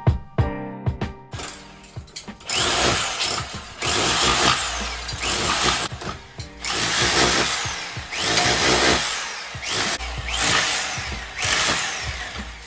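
Power drill running in about six bursts of roughly a second each.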